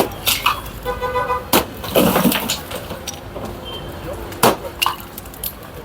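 Sharp bangs and knocks, four of them spread over about six seconds, over a bed of street noise with voices in the background.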